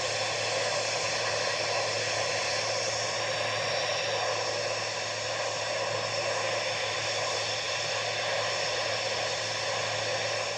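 Steady rushing drone, a hiss-like noise over a low hum with many faint steady tones, unchanging throughout, like a motor or jet engine running.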